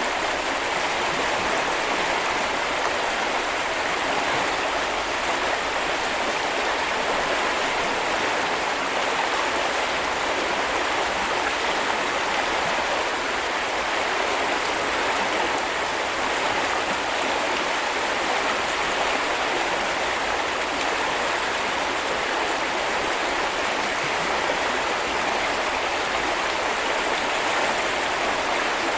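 Small river or brook flowing over stones: a steady, even rush of water that does not change.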